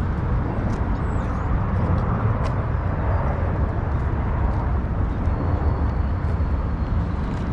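Steady rumble of road traffic, with faint bird chirps high above it.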